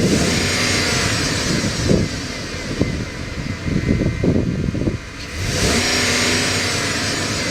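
2016 Ram 3500 dually pickup's engine revved twice, once at the start and again about five and a half seconds in. A high whine climbs with each rev, and the engine settles back to a steady run in between.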